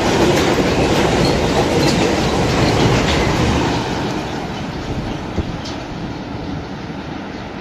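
Train rolling along the track, its wheels clicking sharply over rail joints. The rumble fades over the second half.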